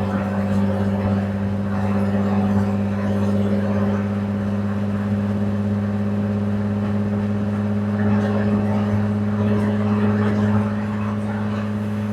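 Jaguar F-Type V6 S's supercharged 3.0-litre V6 running at steady, unchanging revs with a constant hum through the exhaust.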